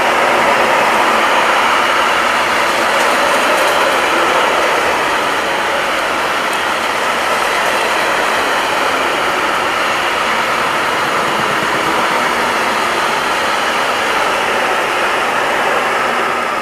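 Freight train of covered hopper wagons passing close by: a loud, steady rolling noise of steel wheels on the rails.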